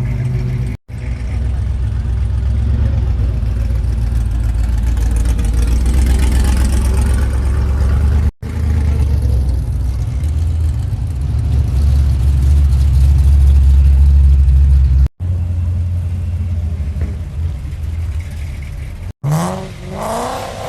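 Car engines running with a deep, steady low rumble, heard in several short clips joined by abrupt cuts. Near the end an engine revs up, rising in pitch.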